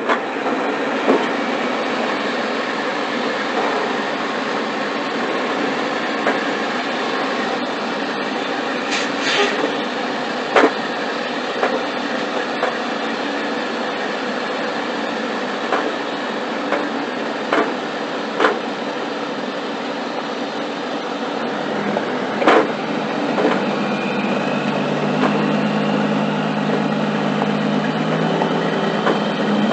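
Steady rumble of a semi truck in motion, with scattered sharp clicks and knocks. About 22 seconds in, a steady low engine hum joins.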